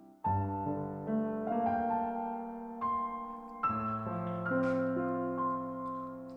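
Background solo piano music: slow notes and chords struck one after another, each left to fade.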